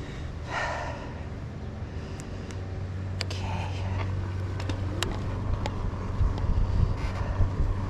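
Electric bike setting off: a steady low hum with road and wind noise that grows a little louder after about three seconds, and a few sharp clicks.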